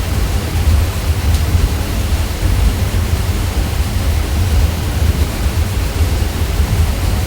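Ceiling fan running steadily: a constant low hum with an even whoosh of moving air over it.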